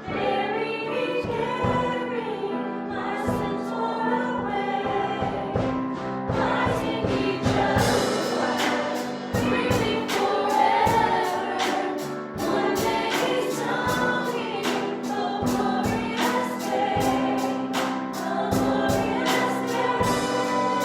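A church worship song: several voices sing together over a band's sustained chords, and a steady drum beat comes in about six seconds in.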